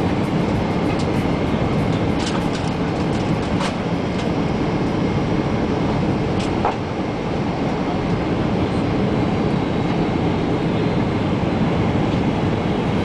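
Cabin noise inside a Boeing 747-400: a loud, steady rumble with a few light rattling clicks in the first few seconds.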